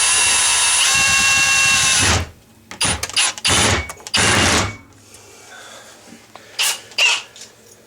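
Power drill running steadily for about two seconds, then several short bursts of the trigger, with two brief quieter sounds near the end.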